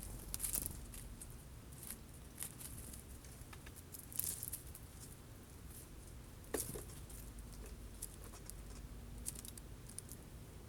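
Birds, likely jays, at a feeder pecking and handling sunflower seeds: irregular light taps and rustles, with a few louder clatters about half a second, four and six and a half seconds in.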